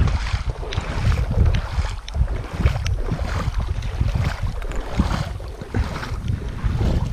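Wind buffeting the microphone in an uneven low rumble, with irregular rustles and knocks over it.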